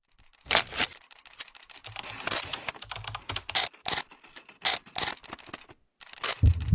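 A string of irregular sharp clicks and clacks, like light objects tapped or handled, with music starting near the end.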